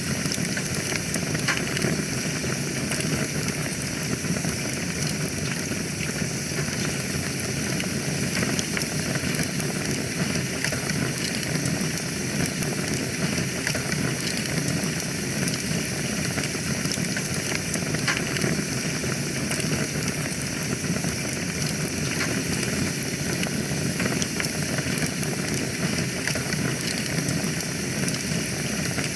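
Wood fire burning in a fireplace: a steady hiss and low rumble of flames with frequent small crackles and pops throughout.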